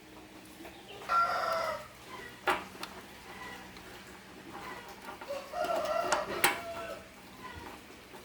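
Two drawn-out animal calls, each about a second long and a few seconds apart, with a sharp knock after the first and another during the second.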